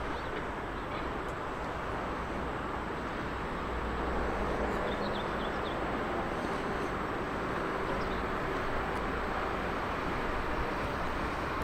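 Steady rumble of an approaching train at a railway station platform, growing a little louder about four seconds in, with a faint steady tone joining it a couple of seconds later.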